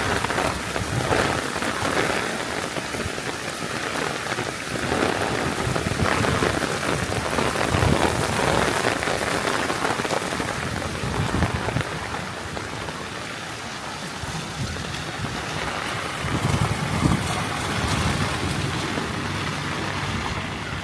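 Heavy rain falling steadily, with many drops striking surfaces close to the microphone.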